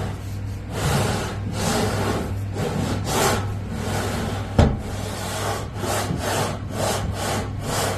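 Magnetic duct scraper on poles scraping grease along the inside of a sheet-metal kitchen exhaust duct, in repeated rasping strokes about one a second, with one sharp knock about halfway through. A steady low hum runs beneath.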